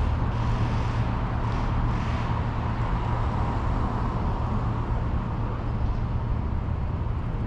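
Steady city street traffic noise: a continuous low rumble of vehicles with a wash of road noise, a little louder at the start.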